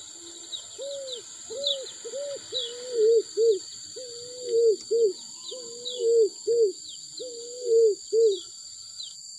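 A dove or pigeon cooing: a run of about a dozen short, arched coo notes in repeated phrases. Thin, falling chirps sound high above them.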